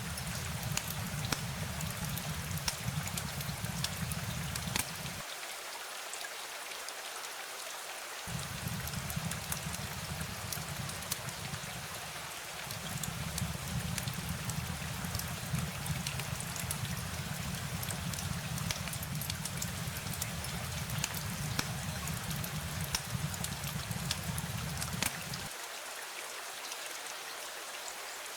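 Steady rain, with many individual drops pattering through the hiss. A low rumble underneath drops out twice for a few seconds.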